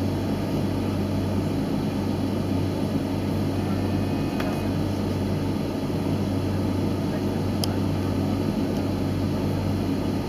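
Steady running rumble of a moving regional train heard from inside the passenger carriage, with one short click about three-quarters of the way through.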